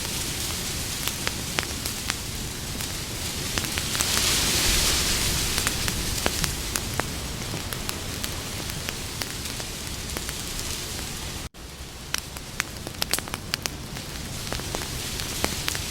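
Campfire burning with a steady hiss and frequent sharp crackles and pops of the wood, the hiss swelling louder a few seconds in. About two-thirds of the way through the sound cuts out for an instant and resumes.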